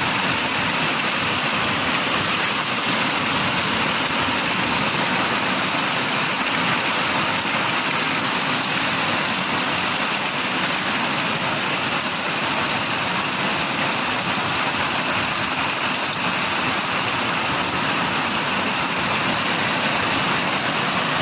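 Rain falling steadily: a constant, even hiss that doesn't let up.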